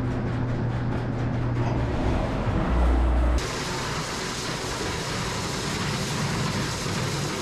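Heavy machinery running steadily with a low hum, which changes abruptly about three and a half seconds in to a broader, hissier running noise.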